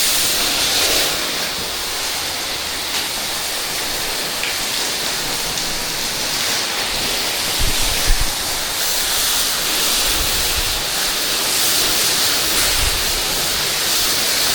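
Pressure washer spray jet hissing steadily as it blasts water against the windows and walls of a house, with a brief low bump about eight seconds in.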